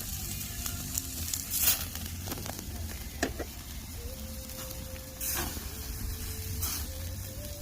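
Hamburger patty sizzling on a grill net over a wood campfire, with scattered pops and crackles. A faint steady tone comes and goes in the second half.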